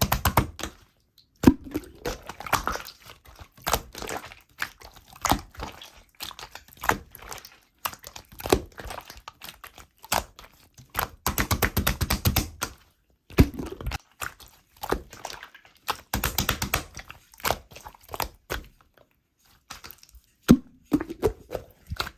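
Slime being squeezed and pressed by hand, giving bursts of rapid small clicking pops with short pauses between them.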